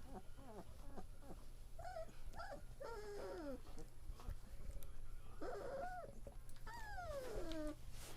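Three-week-old German Shepherd puppies whimpering and squealing: a run of high, thin calls that slide down in pitch, the longest near the end, over a steady low hum.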